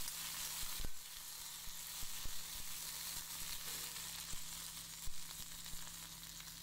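Chopped okra sizzling in hot oil in a black kadai, a steady hiss, while a wooden spatula stirs it, knocking against the pan a few times.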